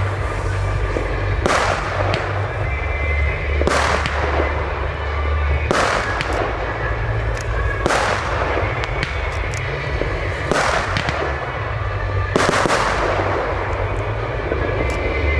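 Fireworks display: aerial shells bursting with loud bangs about every two seconds, six in all, each trailing off, with smaller sharp pops in between.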